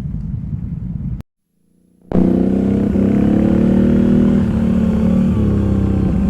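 ATV engine running, cut off abruptly about a second in and silent for roughly a second, then back louder as a steady engine drone holding an even pitch.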